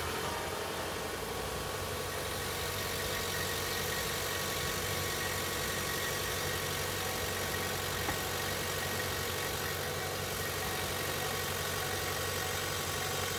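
A car running steadily after being switched on: an even, engine-like hum with a faint steady whine.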